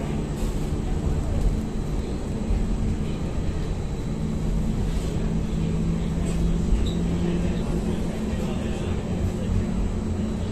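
Ankeng light rail tram running between stations, heard from inside the car: a steady low rumble with an even hum of a few low tones and the odd faint tick.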